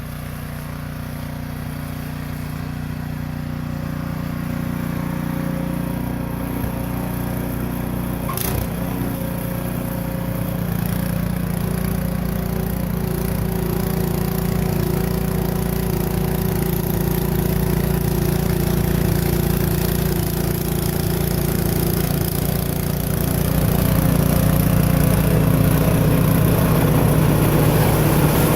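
Craftsman snow blower's engine running steadily, growing gradually louder, with a single sharp click about eight seconds in.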